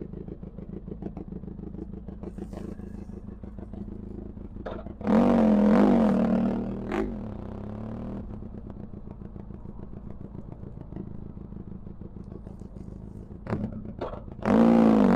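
Benelli TRK 502 X parallel-twin engine through an Arrow exhaust with the dB killer removed, idling with a low, even pulse. It is revved sharply about five seconds in and again near the end, with a couple of short smaller blips in between.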